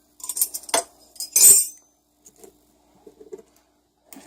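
Metal tools and engine parts clinking and clattering as they are shoved aside on a workbench: a run of clanks in the first two seconds, the loudest about one and a half seconds in, then a few faint taps.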